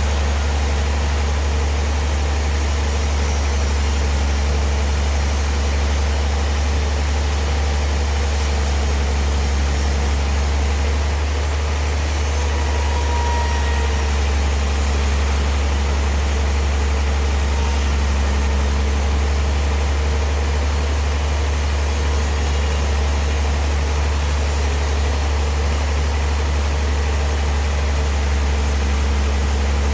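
Sawmill machinery running with a steady, unchanging low engine drone.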